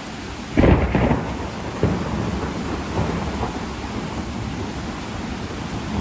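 A close thunderclap about half a second in, a sharp crack with a second burst just after, then rumbling that fades back into steady heavy rain.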